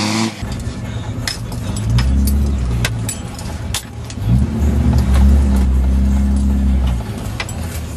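Dodge Ram 2500's Cummins diesel engine revving up twice while the truck works through slick mud, held high for a few seconds the second time before easing off. Scattered sharp clicks and knocks run through it.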